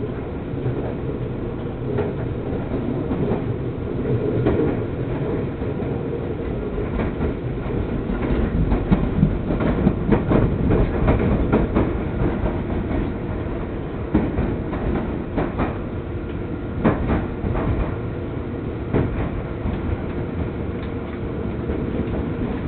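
Seibu Shinjuku Line commuter train heard from inside the carriage, running with a steady low rumble while its wheels clack over rail joints, the clacks busiest about a third of the way in.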